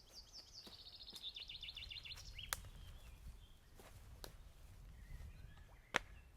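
Songbird singing a fast trill of repeated high notes, stepping down a little in pitch, for about two and a half seconds, over the low steady rumble of a flowing river. A few sharp clicks cut in, the loudest near the end.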